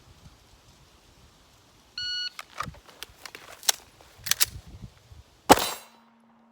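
Shot timer's start beep about two seconds in, then a rapid string of shots from a compensated STI DVC Omni pistol with steel targets ringing, the loudest crack near the end.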